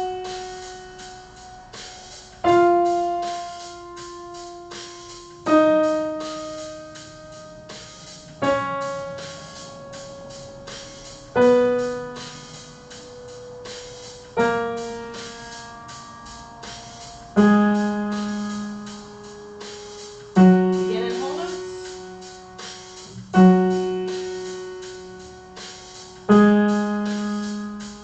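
Piano playing an F-sharp major scale in slow whole notes, one struck note about every three seconds that fades away. It steps down from the top F-sharp to the bottom one, repeats it, and starts back up near the end.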